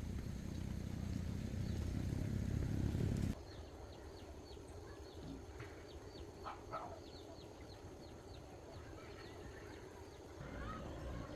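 A low rumble that cuts off abruptly about three seconds in, leaving quieter outdoor background with a run of short, high, falling bird chirps; the low rumble comes back near the end.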